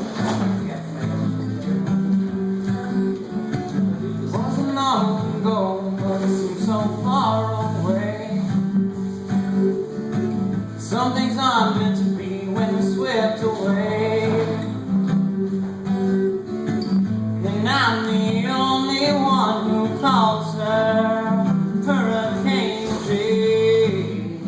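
Music: a strummed acoustic guitar, with a melody line that slides and bends in three phrases over it.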